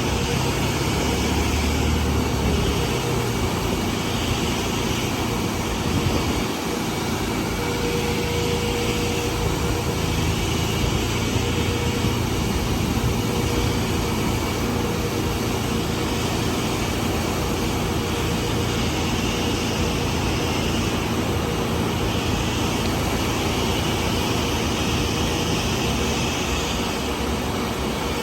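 Car-wash machinery running: a steady, even rush of noise with a faint hum underneath.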